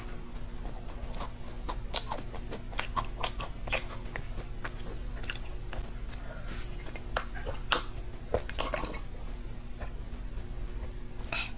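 Close-miked mouth sounds of chewing a soft macaron, with scattered wet clicks and smacks. These are followed by sips and swallows from a mug, over a faint steady hum.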